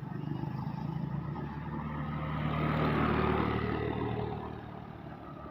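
A road vehicle's engine passing by. It grows louder to a peak about three seconds in, then fades away.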